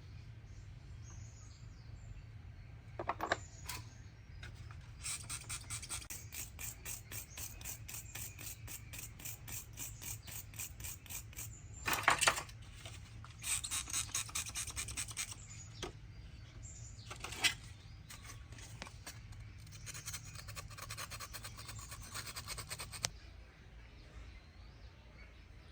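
Hand-worked scraping or scrubbing, back-and-forth strokes about three to four a second in several runs, with a few louder single knocks between them.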